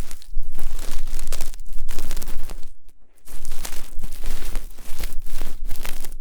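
ASMR ear-cleaning sounds: an ear pick scraping and rubbing right against a microphone's ear, a dense close-up crackling and scratching, with a brief pause about three seconds in.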